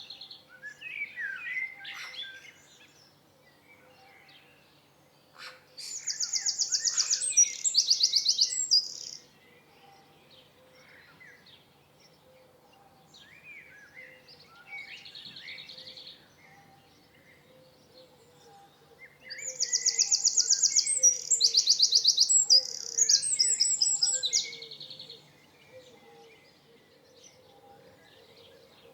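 Songbirds singing: two long, loud songs of rapid repeated trilled notes, one about six seconds in and another around twenty seconds in, with softer scattered chirps between them.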